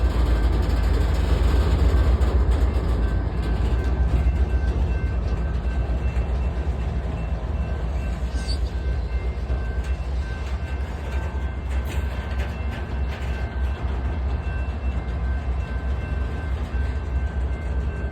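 Freight train rumbling as it slows to a stop. A heavy, steady low rumble eases slightly after a few seconds, with faint steady high tones above it.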